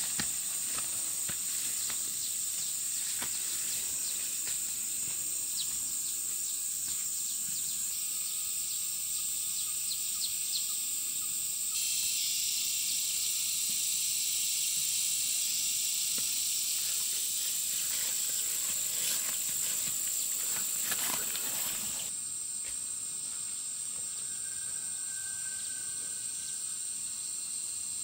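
Night insect chorus of crickets or katydids: a steady, high-pitched shrill drone with a few faint clicks. It gets louder for about ten seconds in the middle.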